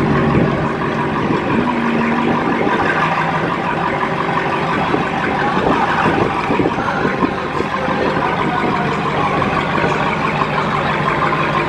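Car engines running steadily.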